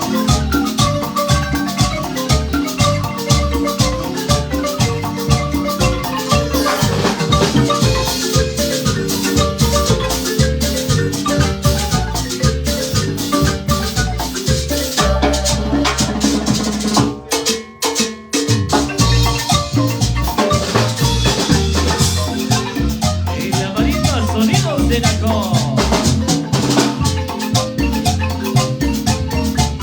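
Marimba band playing lively dance music, with many notes struck on the marimba over a steady bass beat. The music breaks off briefly a little past halfway, then comes back in.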